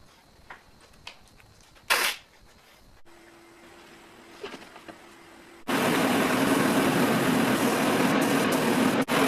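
A few light knocks and one short loud hiss, then a motor-driven tool starts running loud and steady about two-thirds of the way in.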